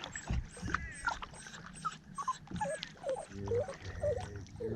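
Dog whining on a kayak: a string of short high-pitched whines that rise and fall.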